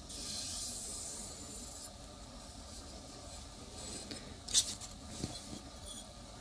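Tile samples being handled: a rubbing, scraping sound for about two seconds, then a sharp click about four and a half seconds in.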